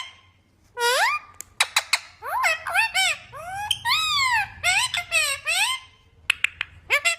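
Pet green parrot calling and chattering: a run of high, squeaky calls that slide up and down in pitch, with a few sharp clicks near the end.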